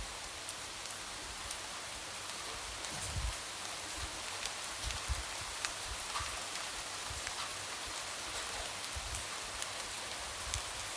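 Light rain falling steadily against a window, an even hiss with scattered sharp drop taps and occasional soft low thuds.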